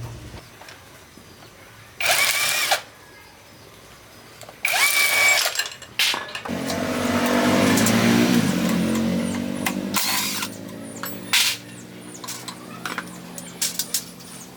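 A handheld power tool run in two short bursts, then a longer run whose pitch falls as it slows down, followed by scattered sharp clicks of tools and parts.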